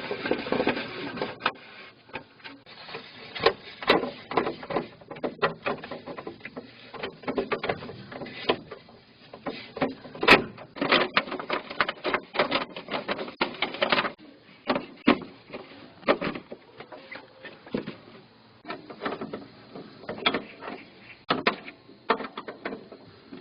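Irregular clicks, knocks and rattles of hands working on a tractor's wiring, handling connectors and parts, with no engine running.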